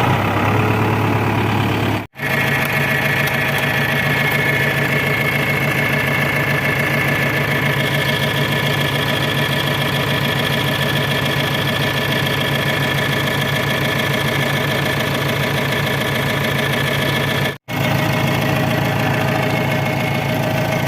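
A tractor engine running steadily, its sound cutting out completely twice for a moment, about two seconds in and again near the end.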